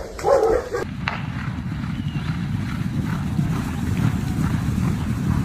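A short dog vocal sound, then, about a second in, a sudden switch to a steady low rumbling noise.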